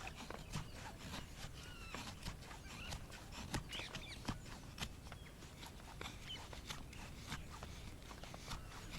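Campfire crackling, with irregular sharp pops and snaps of burning wood.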